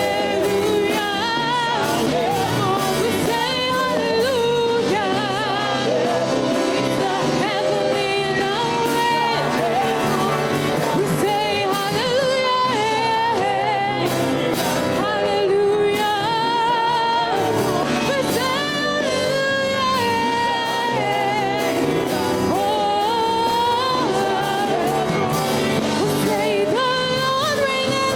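Worship music: singing voices with wavering, held notes over a steady band accompaniment.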